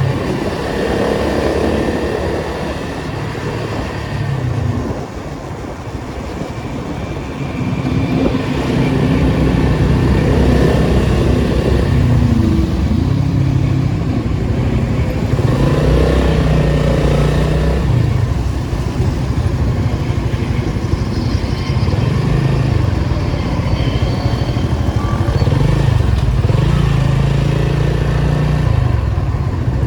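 Datsun 280Z's 2.8-litre straight-six running under way, its engine note climbing and dropping several times as it speeds up and eases off, louder from about eight seconds in.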